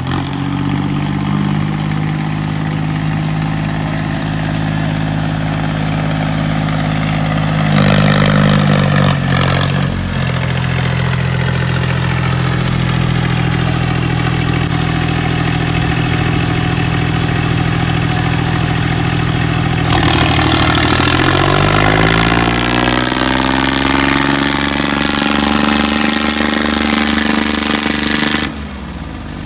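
Tractor diesel engine running steadily, with a brief burst of throttle about eight seconds in. About twenty seconds in it revs up and holds at high revs, then drops back suddenly near the end.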